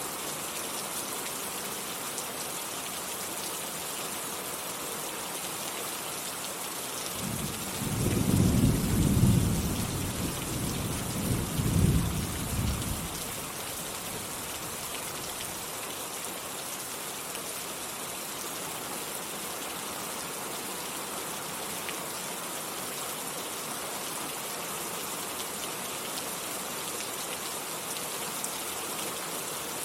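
Steady rain falling, with a roll of thunder about a quarter of the way in that rumbles for several seconds, peaks twice and fades back into the rain.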